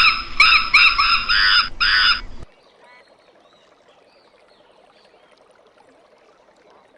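Monkey calling: a quick run of high-pitched honking calls, about two to three a second, that stops abruptly about two and a half seconds in, leaving only faint background sound.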